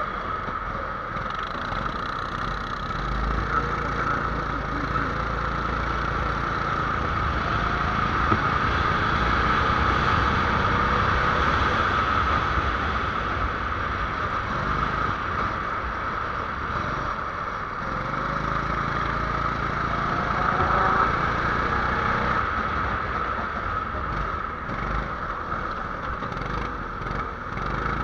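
A small 270cc engine running continuously under a steady hiss, its pitch slowly rising and falling as it speeds up and slows down.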